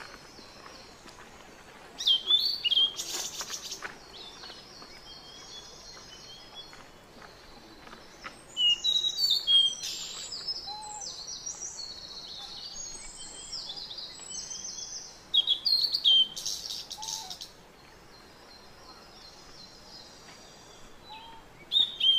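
Wild birds chirping and singing, high-pitched calls that come in louder bursts about every six or seven seconds with softer chirping between.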